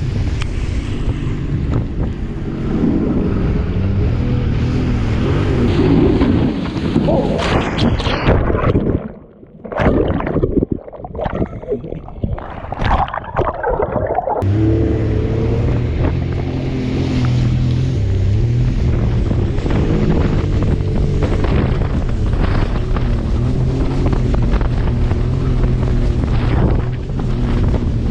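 Jet ski engine running under way, with wind buffeting the microphone and water rushing past. About eight seconds in, the engine sound breaks up into choppy splashing and dips for several seconds, then settles back into a steady drone.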